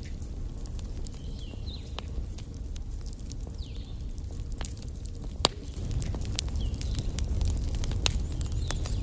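Wood fire burning in a fireplace, crackling with sharp irregular pops over a steady low rumble; the loudest pop comes about five and a half seconds in.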